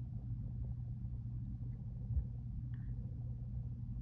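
Freight train rumbling steadily, with one brief knock about two seconds in.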